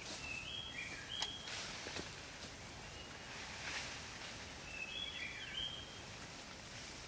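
Forest background hiss with a bird's short phrase of several flat whistled notes, heard twice, once near the start and again about five seconds in. A couple of faint rustles from the leaf litter.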